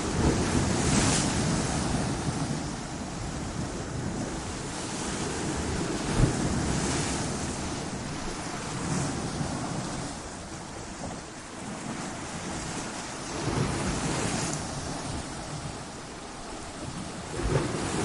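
Ocean surf breaking against coastal rocks: a continuous wash of water with a louder surge every few seconds as waves crash in.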